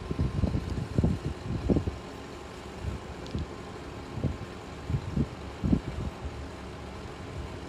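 Wind buffeting the microphone in uneven gusts of low rumble, with no saw running.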